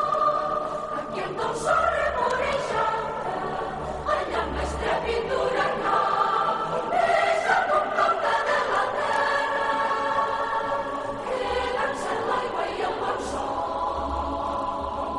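Choral singing: many voices singing a melody together.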